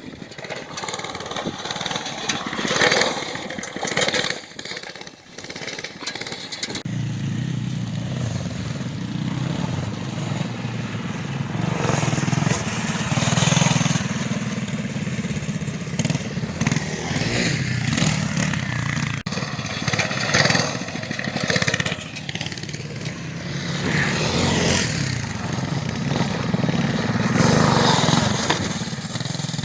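Small minibike engine running as it is ridden. The engine sound swells and fades over the first few seconds, then holds close and steady from about seven seconds in, rising and falling with the throttle.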